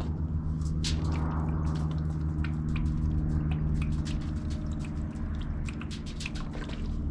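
Liquid being drizzled onto aluminium foil, with many small sharp ticks and patters, over a steady low electrical hum.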